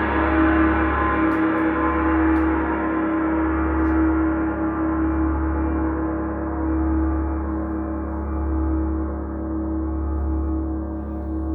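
A long, sustained ringing tone that slowly dies away, its higher overtones fading first, with a slow pulsing beat in the deep hum underneath.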